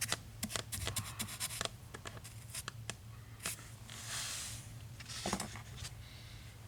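Quiet handling noises: a run of small clicks and taps, a brief scrape about four seconds in, and a short knock after five seconds.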